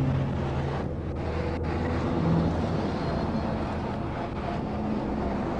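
Steady low rumble of idling vehicle engines, with wind buffeting the microphone.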